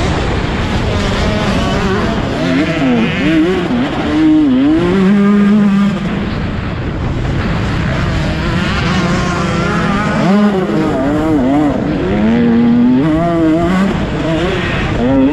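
Motocross bike engines racing, revving up and down repeatedly as the throttle is opened and closed, with more than one bike heard at once at times.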